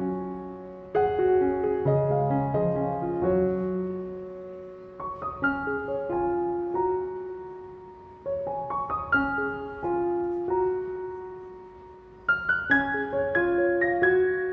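Background piano music: soft melodic phrases of single struck notes and chords that each fade out, with new phrases starting every few seconds.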